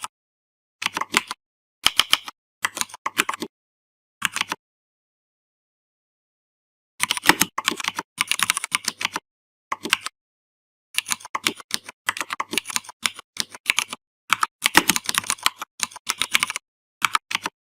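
Typing on a computer keyboard: short bursts of keystrokes, a pause of about two seconds, then longer fast runs of keys, with dead silence between bursts.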